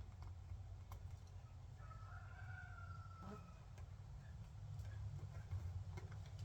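A faint, drawn-out chicken call lasting about a second and a half, falling slightly in pitch, over a steady low hum.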